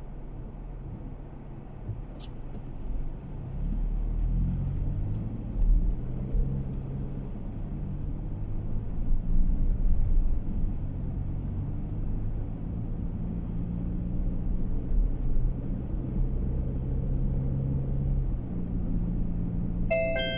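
A car's engine and road noise heard from inside the cabin, picking up about three or four seconds in as the car accelerates, then running steady at cruising speed. A short electronic chime sounds near the end.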